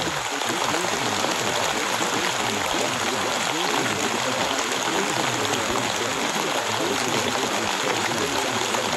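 Steady hiss of a rain recording, with a faint, indistinct murmur of layered voices mixed underneath.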